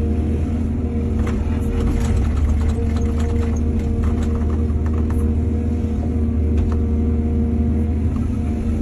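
Excavator's diesel engine running steadily at a constant speed, with scattered clattering knocks for a few seconds about a second in.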